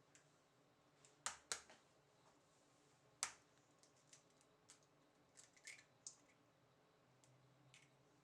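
A few sharp clicks and light taps of small hard objects over quiet room tone: two close together about a second and a half in, the loudest about three seconds in, then scattered fainter ticks.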